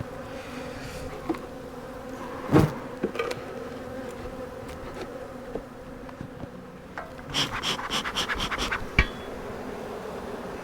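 A defensive colony of honey bees buzzing steadily around an opened hive. A sharp knock comes about two and a half seconds in and another near the end, with a quick run of clicks just before it.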